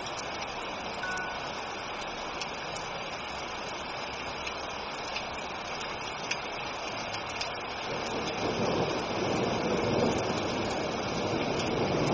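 Steady rain hissing, with a low rumble of thunder building up and growing louder from about eight seconds in.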